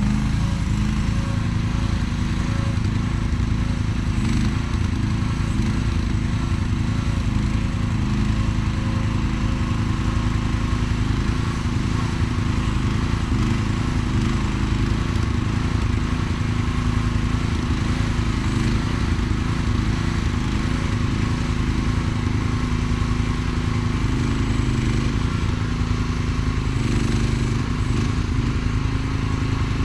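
Mini excavator's small gas engine running steadily.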